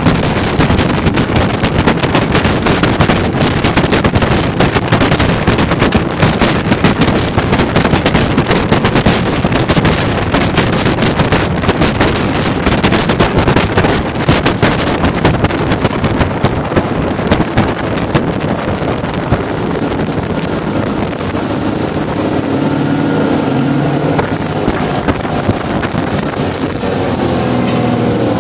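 Rigid inflatable speedboat under way at speed: water and engine noise under heavy wind buffeting on the microphone. About two-thirds of the way through the buffeting eases and the engine's pitched hum comes through more clearly.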